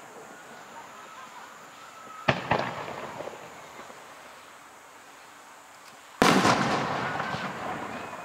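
Aerial firework shells bursting: two sharp bangs close together about two seconds in, then a louder burst about six seconds in followed by a long crackle that slowly fades.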